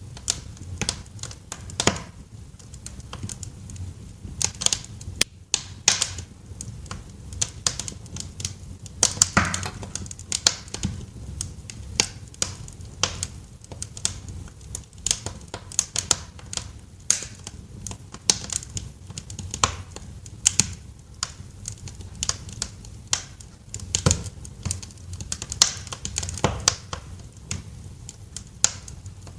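Wood fire in a fireplace crackling, with irregular sharp pops and snaps, some louder than others, over a low steady rumble of the flames.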